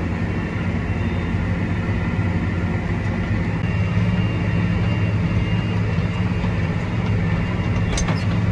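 Tractor engine running steadily under load with a low drone, heard from inside the cab while pulling a tillage implement across the field. A brief click comes near the end.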